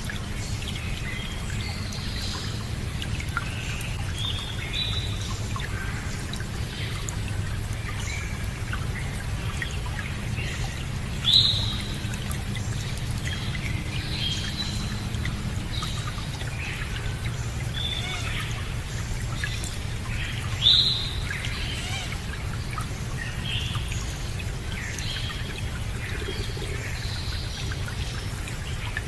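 Running water with birds chirping over it, many short calls throughout and two louder calls about 11 and 21 seconds in.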